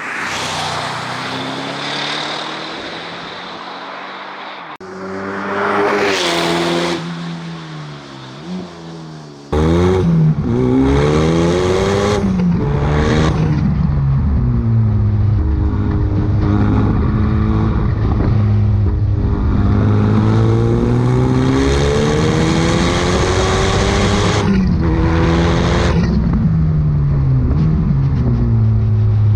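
A high-performance sports car engine and exhaust revving and accelerating hard. The sound changes abruptly about five seconds in and again near ten seconds in. After that it is louder and steady, and the engine note climbs and drops several times.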